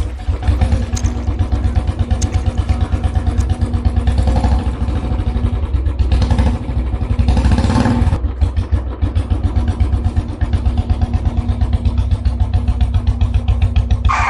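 Engine sound, a steady chugging with a fast, regular pulse, like a small vehicle engine running.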